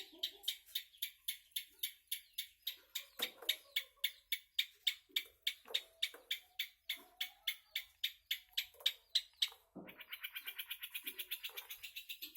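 Long-tailed shrike (cendet) singing hard: a fast run of sharp repeated notes at about five a second, then after a brief break near the end a quieter, quicker chatter.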